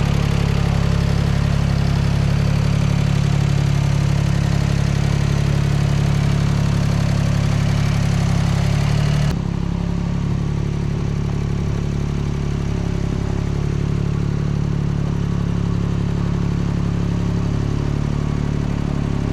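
An engine running at a steady idle. About nine seconds in, the sound changes abruptly: the hiss above the engine drops away and it becomes slightly quieter.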